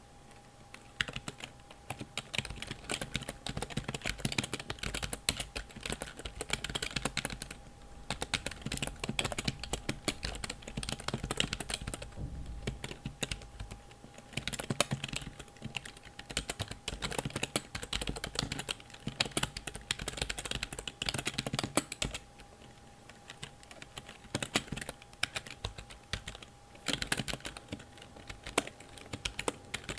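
Keys of a computer keyboard clicking in quick, irregular runs of typing and tapping, with a few short pauses.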